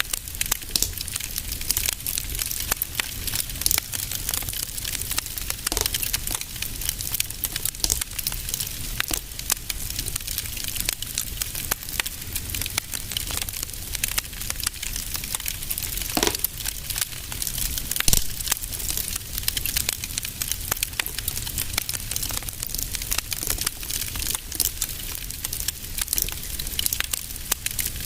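Wood fire in a fireplace crackling steadily, dense small crackles over a low rumble, with a few louder pops, one about 16 seconds in and another about 18 seconds in.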